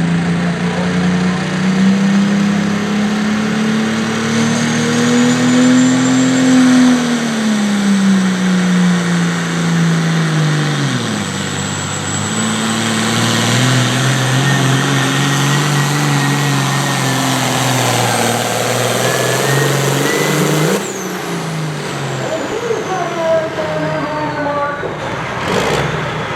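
A pulling vehicle's engine running hard, its pitch climbing over the first several seconds, then dropping off about eleven seconds in and settling to a steadier, lower run. The sound changes abruptly near the end.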